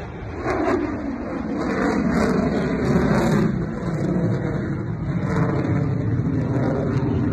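Jet noise from an F-35A's single F135 afterburning turbofan as the fighter flies its display. It is a loud, steady rushing noise that swells a little two to three seconds in.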